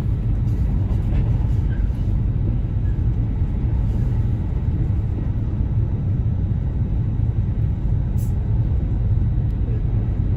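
Electric limited express train running, heard from inside the passenger car: a steady, low rumble of wheels and motors on the track.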